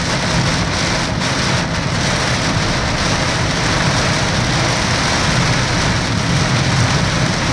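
Heavy rain drumming steadily on a car, with the low rumble of the car and its tyres on the wet road underneath.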